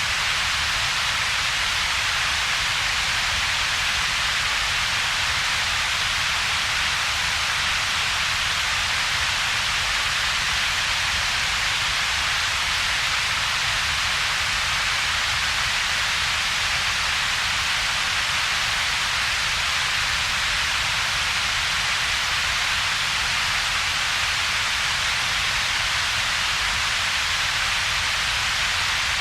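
Steady generated double-peaked noise: an even hiss strongest in the upper middle, with a weaker low rumble beneath and a hollow between them, unchanging throughout.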